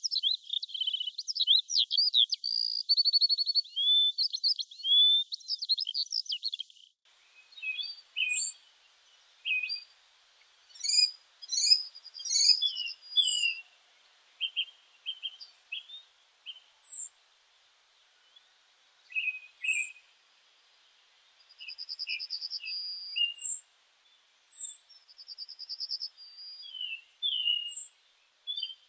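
Wild birds singing. For the first seven seconds one bird sings a rapid, continuous warbling song. Then the sound changes abruptly to several birds with scattered chirps, high down-slurred whistles and short trills separated by brief pauses.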